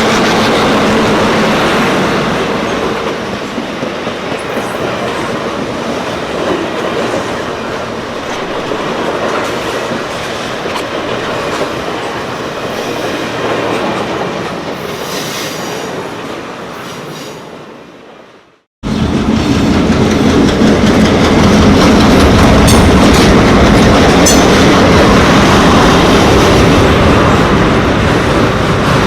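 A real full-size passenger train, the Royal Canadian Pacific, rolling past with wheels clicking over the rail joints. The sound fades away, then cuts off abruptly at about two-thirds of the way in. It is replaced at once by a louder stretch of the train running by.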